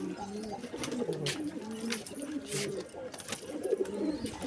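Domestic pigeons cooing, several birds' low warbling coos overlapping one another, with a few short sharp clicks among them.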